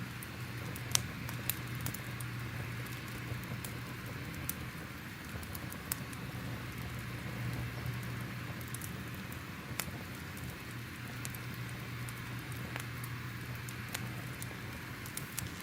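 Crackling fire ambience: a steady hiss over a low hum, with irregular sharp pops and crackles.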